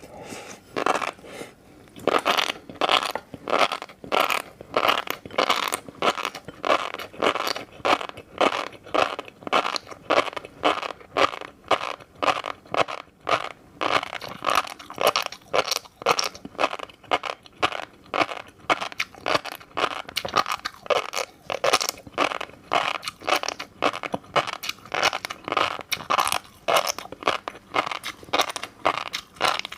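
Close-miked chewing of fish roe: a steady rhythm of wet, crunchy pops and munches, about two a second.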